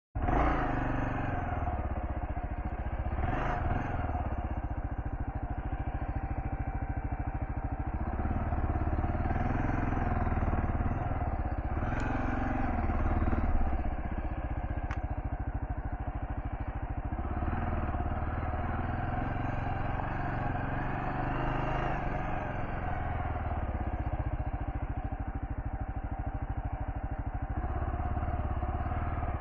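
Kawasaki KLR650's single-cylinder engine running as the bike is ridden off-road, its pitch rising and falling with the throttle. Two sharp ticks come a little past the middle.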